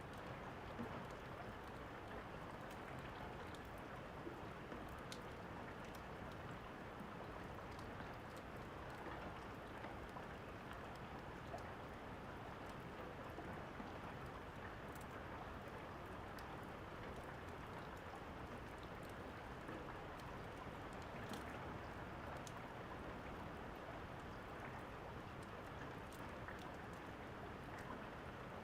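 Steady rain with scattered sharp pops of a crackling wood fire mixed over it.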